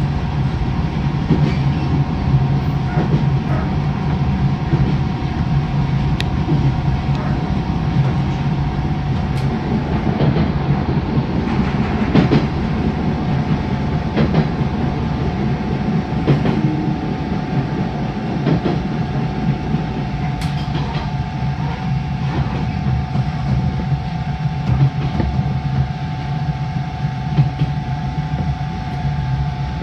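JR East 583 series electric train running, heard from the lead car: a steady rumble and hum with rail-joint clicks scattered through it.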